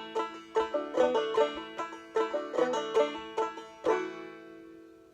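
Plucked string instrument picking the closing instrumental phrase of a folk song in a steady rhythm, ending on a final note about four seconds in that rings out and fades.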